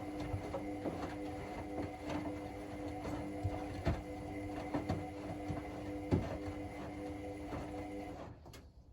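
Hotpoint WML540 washing machine drum turning during a wash: a steady motor whine with irregular knocks and clunks of the laundry tumbling. The motor stops about 8 seconds in as the drum pauses.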